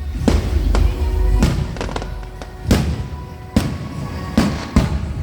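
Fireworks display: about seven sharp bangs of shells bursting at irregular intervals over a low rumble, with music playing underneath.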